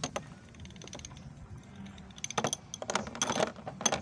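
Light metallic clinks and rattles of hand tools on a spark plug, a socket and extension being handled and fitted, in short clusters about two and three seconds in.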